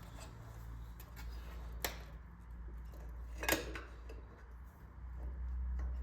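Two sharp metallic clicks of small engine parts and hand tools being handled during disassembly, about a second and a half apart, over a steady low hum that grows louder near the end.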